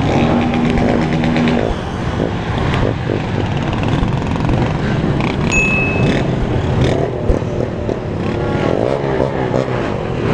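Many small motorcycles riding together in a group, their engines running with overlapping notes and revving up and down about nine seconds in. A brief high-pitched beep sounds about five and a half seconds in.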